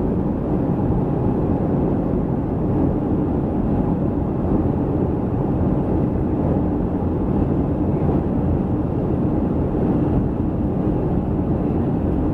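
Steady cabin noise of a Boeing 737-300 airliner in flight, heard from inside the passenger cabin: an even low rumble of engines and airflow with a faint steady hum.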